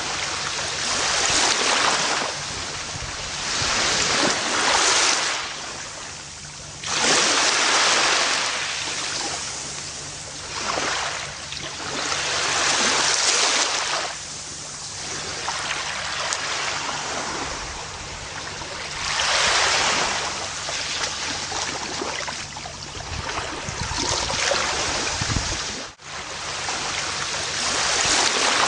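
Gentle ocean waves washing onto a beach, the surf swelling and falling back every few seconds, with a brief dropout in the sound near the end.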